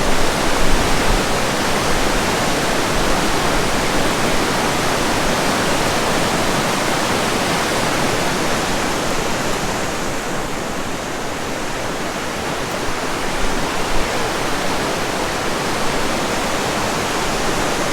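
Steady rush of a fast river running through the canyon below the suspension bridge.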